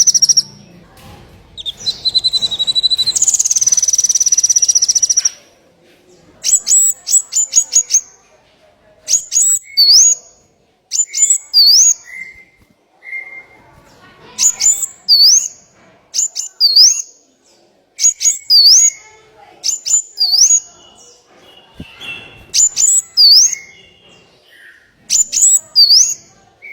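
Small songbird singing a masteran song. A loud continuous high trill cuts off about five seconds in. After that one phrase repeats every two to three seconds: a quick run of sharp ticks, then a hooked whistle that swoops up.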